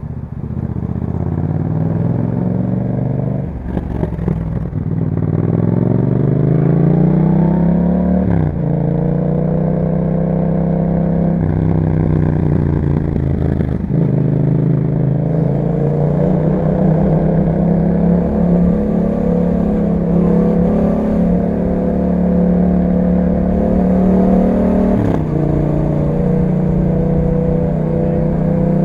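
2021 Yamaha MT-07's parallel-twin engine through an Akrapovic exhaust, pulling up through the gears: the revs climb and drop sharply at three upshifts in the first half. It then holds a steady cruise with small throttle changes, and there is one more drop near the end.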